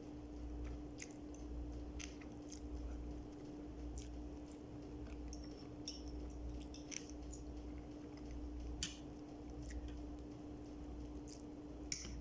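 Close-up mukbang eating sounds: a person chewing with scattered wet mouth clicks and smacks at an irregular pace, over a steady low hum.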